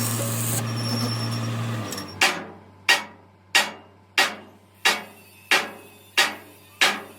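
A steady machine noise with a low hum stops about two seconds in. Then a hammer strikes steel eight times at an even pace, about one and a half blows a second, each blow ringing briefly.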